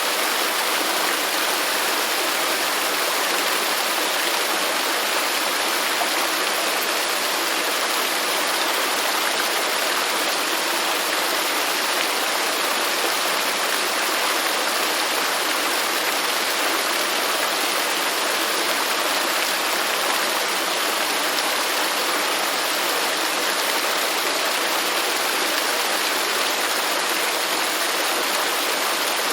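Waterfall: falling water rushing in a steady, even hiss with no breaks or changes.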